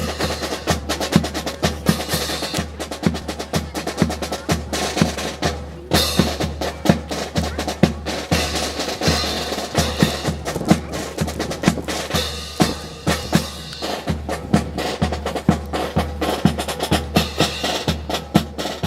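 Brass band playing march music, with snare and bass drums keeping a steady beat.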